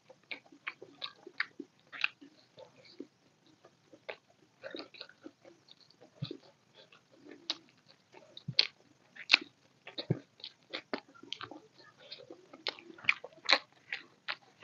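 Close-miked mouth sounds of eating chicken biryani by hand: irregular chewing, smacking clicks and bites into a chicken drumstick.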